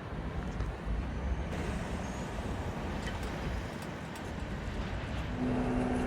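Steady low rumble of a passing train. About five seconds in, a steady pitched hum joins it.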